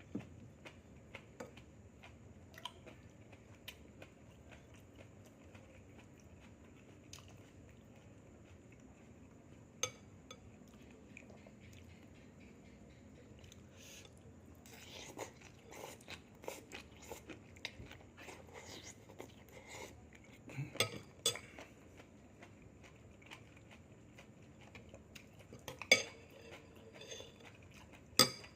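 A person chewing and biting crunchy food close to the microphone, with scattered clicks and crackles, and sharp knocks of dishes or cutlery twice near the end.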